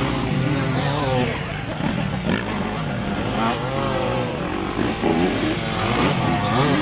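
Several dirt bike engines revving together, their pitches rising and falling as the throttles open and close.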